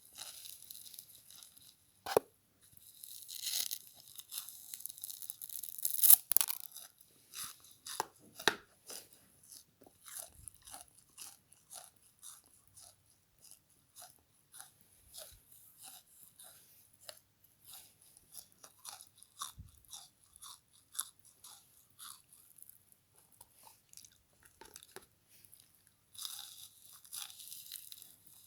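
Frozen bath sponge scrubber being bitten and chewed. Sharp, loud crunches come in the first few seconds, then a long run of softer chewing clicks about one a second, with a louder crunchy stretch near the end.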